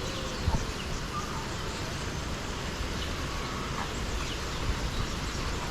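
Steady outdoor background noise with a few faint, short bird calls.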